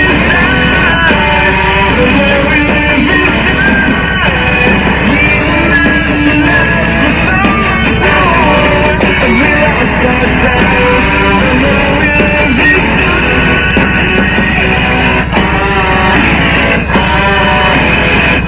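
Rock song with strummed electric guitar playing steadily and loud from a BOSS Audio MC470B motorcycle Bluetooth speaker system.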